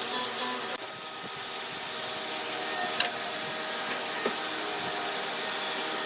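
A woodworking power tool running steadily on wood. A louder layer drops out just under a second in, and there is a single sharp click about three seconds in.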